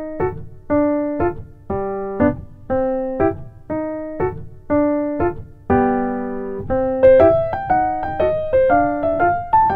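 Background music: a bouncy electric-piano tune, notes falling on an even beat with a short pickup note after each, breaking into a quicker, higher run about seven seconds in.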